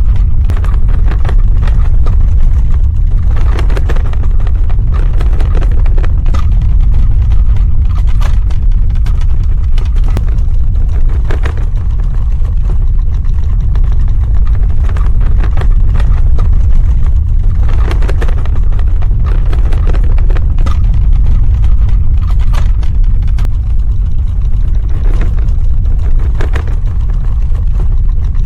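Earthquake sound effect: a loud, steady deep rumble with irregular cracks and rattles scattered through it.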